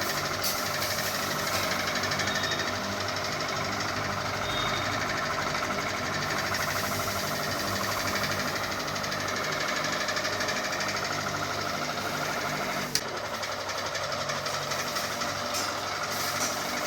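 Ceiling fan running with a steady, rapid mechanical rattle over a low hum, and one sharp click about thirteen seconds in.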